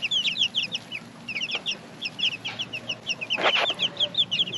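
A brood of young, half-feathered chicks peeping: many short, high chirps overlapping without a break. A brief rustle comes about three and a half seconds in.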